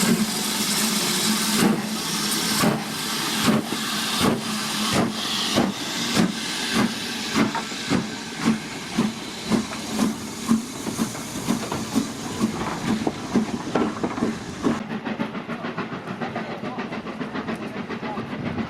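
Steam locomotive pulling away: a steady hiss of steam, then exhaust chuffs that come quicker and quicker as the engine gathers speed. Near the end the sharp chuffs give way to a duller, even running sound.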